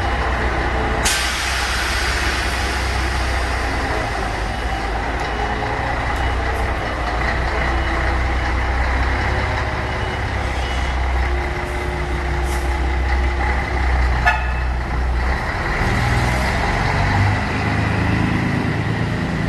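Heavy truck's diesel engine running steadily, with a hiss of released air about a second in.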